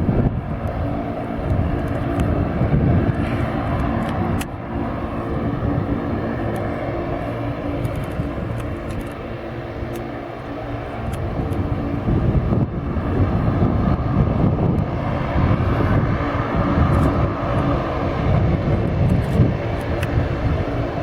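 Turboprop airliner's engines running steadily, a droning hum with several steady tones, with wind buffeting the microphone.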